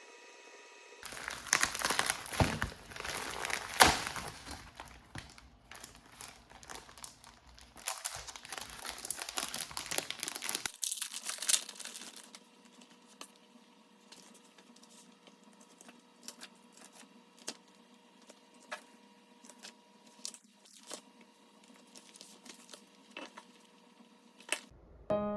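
Crinkling and rustling of crinkly material being handled for about ten seconds, then scattered light clicks and taps.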